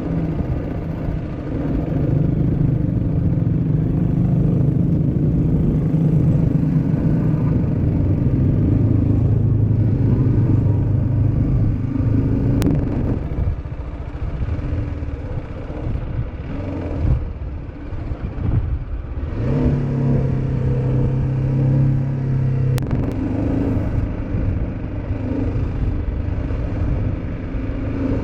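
Motorcycle engine running while riding, its note steady, then easing off and dipping briefly about two-thirds of the way through before it picks up again.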